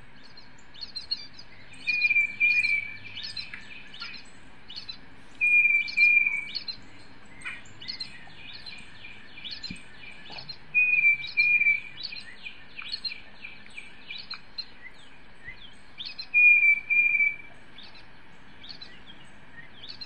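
Recorded tufted titmouse song played through a laptop speaker: a clear whistled phrase of repeated notes comes four times, a few seconds apart, with fainter high chips and twitters throughout.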